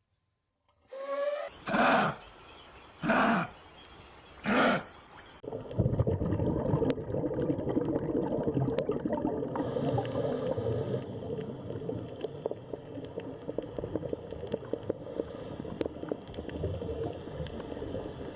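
Animal calls: three loud, separate calls about a second and a half apart, then a dense, continuous stretch of rough, grunting animal noise.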